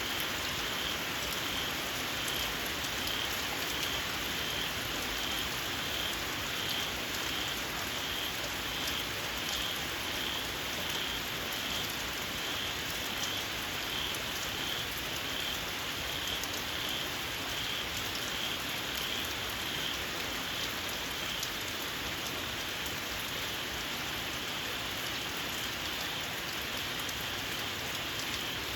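Steady rain falling, with a high, shrill call from small frogs (khiat) pulsing about one and a half times a second over it; the calling fades in the last third.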